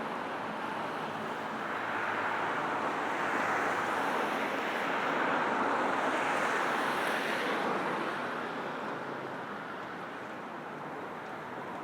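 Road traffic: a vehicle passes close by, its tyre and engine noise swelling over a few seconds and then fading, over a steady background hum of traffic.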